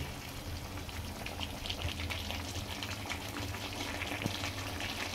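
Chicken, onion and tomato masala sizzling in mustard oil in a kadhai, a steady fine crackle, while it fries down.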